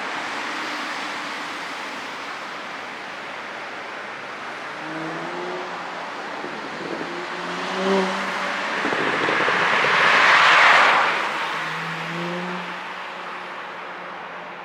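Porsche Panamera 4's engine and exhaust under way over steady road noise, with a short sharp sound about eight seconds in and a swell of noise that peaks near eleven seconds and then dies away.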